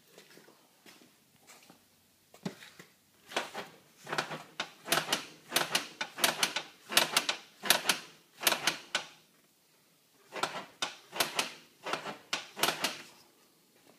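Creaking from a new Can-Am 800R XMR ATV: runs of sharp creaks and clicks, several a second, with a short pause about two-thirds of the way through.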